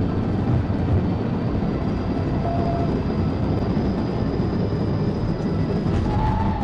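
Steady heavy rumble of road and wind noise from a vehicle travelling at high speed, with a faint high whine running through it.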